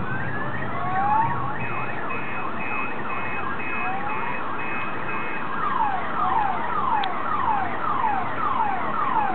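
Many whistling fireworks screaming at once, overlapping whistles rising, wavering up and down, and in the second half falling one after another about twice a second, with a single sharp crack about seven seconds in.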